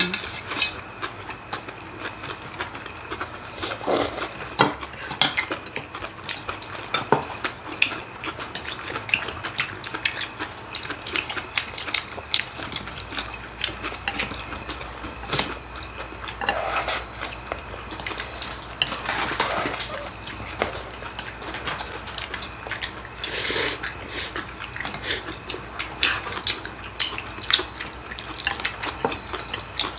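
Metal chopsticks and spoons clicking and scraping against bowls and plates at a family meal, in scattered irregular clicks, with brief soft eating noises such as chewing and slurping in between.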